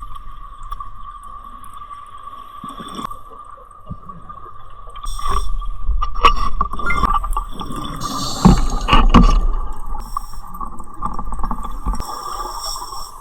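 Underwater sound of a scuba diver breathing through a regulator: exhaled bubbles rumble and gurgle in a loud stretch through the middle, over a steady whine.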